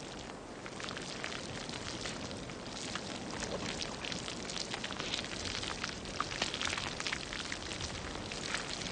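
Low-gas basalt lava welling out and flowing, with a steady hiss and many small crackles and pops that grow a little busier partway through.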